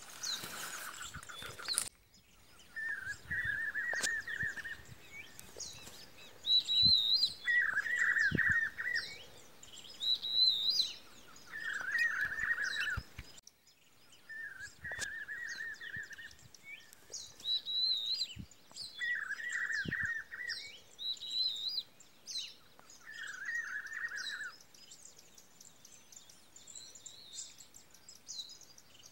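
Birds calling: a buzzy call about a second long, repeated about every four seconds, with shorter, higher wavering notes in between. A brief rush of noise at the very start.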